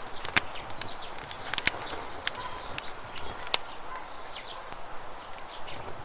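Campfire crackling with sharp, irregular pops over a steady rush of flowing river water, with a few short bird chirps.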